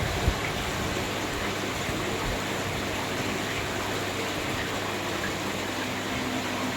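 Water rushing steadily in a whirlpool bathtub, with a machine hum underneath. There is a single short knock just after the start.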